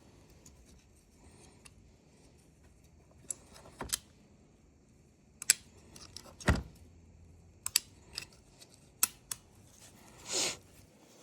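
Tools and small parts being handled and set down on a workbench during a chainsaw oil-pump repair: scattered sharp clicks and taps, with one heavier knock in the middle. A short rushing noise, about half a second long, comes near the end.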